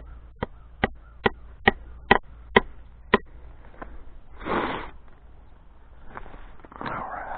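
Seven quick hammer blows, a little over two a second, on fence-building work at a wooden post, then a short rushing noise about four and a half seconds in.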